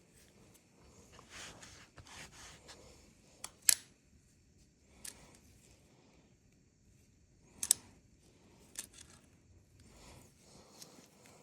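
Hand work on the chainsaw during repair: a few sharp clicks of small parts and tools, the loudest nearly four seconds in and a close pair about eight seconds in, with light rustling and scraping between.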